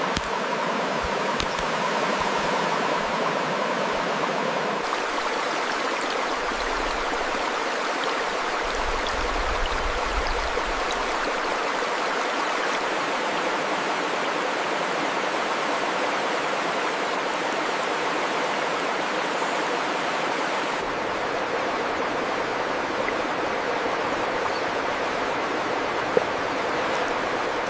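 Steady rush of a flowing stream, its tone shifting abruptly about five seconds in and again about twenty-one seconds in.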